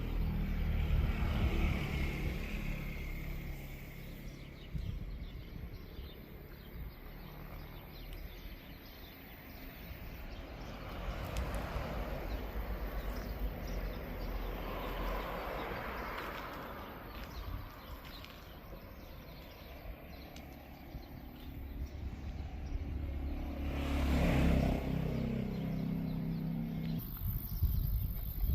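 Road traffic: several vehicles passing one after another, each rising and fading away, the loudest about three-quarters of the way through.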